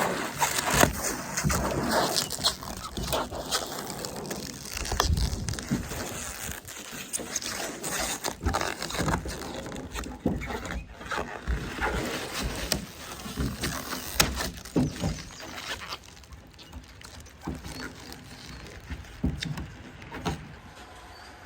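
Plasti Dip rubber coating being peeled off a truck's paint, an uneven crackling, tearing rustle with many short snaps, busier in the first part and quieter for the last few seconds.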